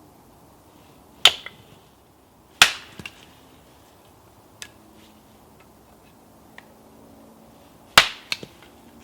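Three loud, sharp cracks, about a second in, a little later, and near the end, each with a short quick echo-like tail, with a few faint ticks between them over a quiet background.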